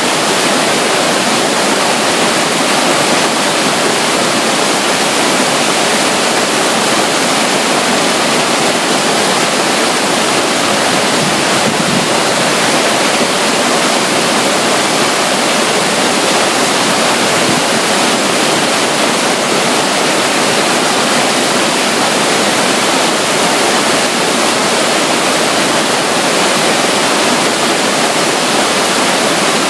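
Running water: a small flow of water spilling down beside a river near a waterfall, a steady, even rush with no breaks.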